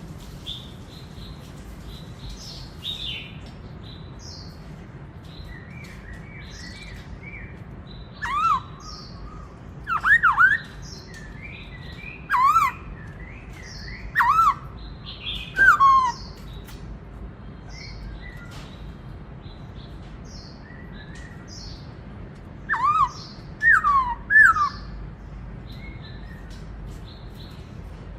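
Black-throated laughingthrush (khướu bạc má) singing: loud, clear whistled notes that sweep down and up, in short phrases with pauses between them, mixed with softer, higher twittering.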